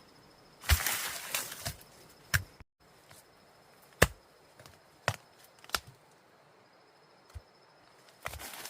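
Single sharp strikes on bamboo or wood, about five knocks spaced a second or so apart, after a short rustling scrape near the start and with another scrape at the very end.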